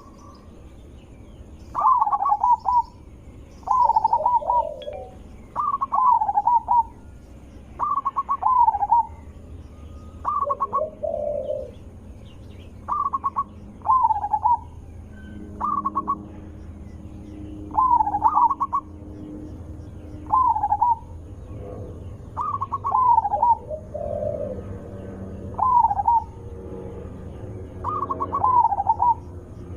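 Zebra dove (perkutut) cooing: a short, bubbling coo phrase repeated about every two seconds, with a lower-pitched coo now and then.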